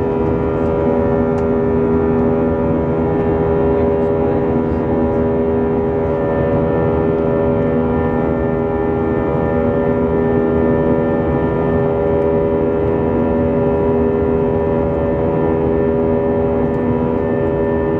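Airbus A320's CFM56 jet engines heard from inside the cabin, running steadily at constant power with a dense rumble and several steady tones over it.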